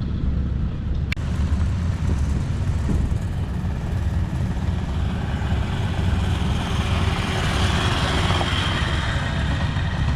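A large engine running steadily with a deep rumble, with a sharp click about a second in.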